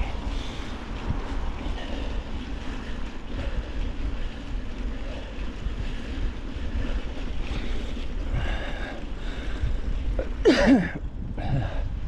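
Wind buffeting the microphone over the rumble of a mountain bike's tyres rolling along a trail. A brief louder sound with a falling pitch comes about ten and a half seconds in.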